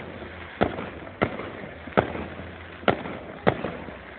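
Fireworks show shells exploding: five sharp bangs, spaced under a second apart, each dying away briefly.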